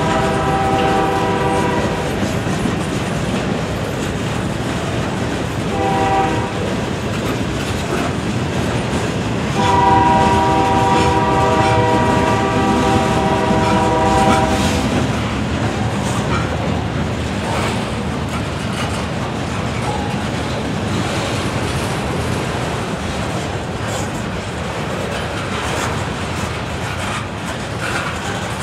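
Freight train of covered hoppers and flatcars rolling by with a steady rumble and clickety-clack of wheels over rail joints. The locomotive horn, up ahead of the cars, sounds three times: the end of a long blast, a short toot about six seconds in, then a long blast of about five seconds. This is the closing short-long of a grade-crossing signal.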